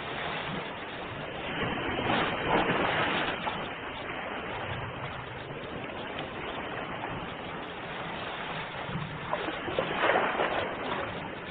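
Ocean waves washing ashore: a steady rush of surf that swells into a louder breaking wave about two seconds in and again near the end.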